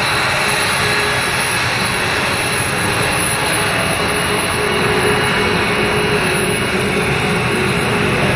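Airplane engine noise: a loud, steady drone with a faint steady whine running through it.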